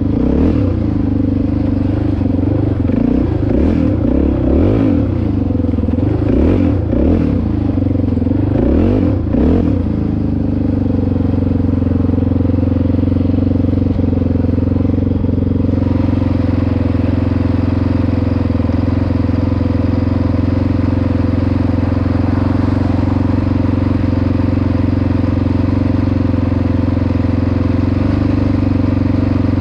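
Dirt bike engine on a trail ride, rising and falling in pitch as the throttle is worked for about the first ten seconds, then running at a steady speed.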